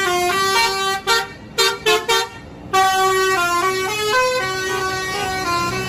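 Telolet bus horn playing its tune: a multi-note horn sounding a run of stepped notes, broken by a few short toots and a pause about a second in, then carrying on.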